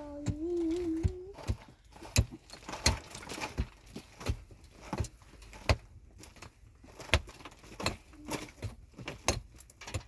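Irregular sharp knocks and clinks, some close together and some about a second apart, like hard objects being struck or handled. Over the first second or so there is a short held, wavering hum or call.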